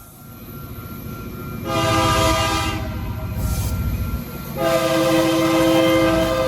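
Locomotive air horn sounding two long blasts, the first starting about a second and a half in and the second about four and a half seconds in, running on past the end, over the low rumble of the passing train.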